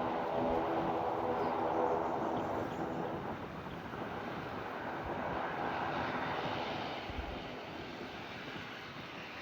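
Airliner engines running steadily, with a few held tones in the first couple of seconds, gradually fading as the plane moves away.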